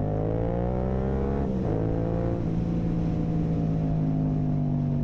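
Yamaha R7's 689 cc parallel-twin engine, with a straight-through Akrapovic full carbon exhaust and its dB-killer out, pulling hard under throttle with the pitch rising. It drops in pitch with an upshift about a second and a half in, then keeps pulling steadily and slowly rises again.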